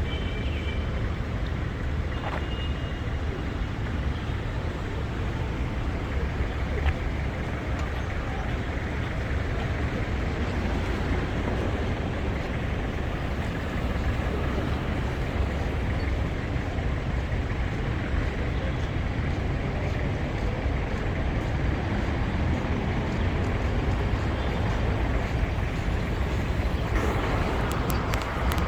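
Steady city street noise from road traffic, a continuous rumble and hiss with no single event standing out. The hiss grows louder near the end.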